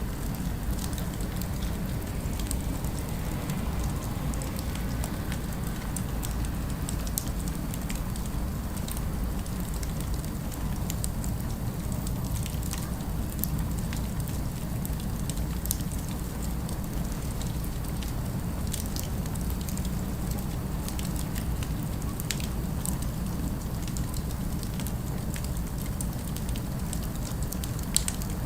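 Crackling fire ambience: a steady low rumble with scattered sharp pops and crackles, one louder pop near the end.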